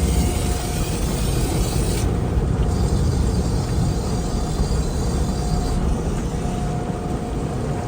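Automatic car wash machinery running with a steady low rumble; a high hiss over it cuts off suddenly about two seconds in.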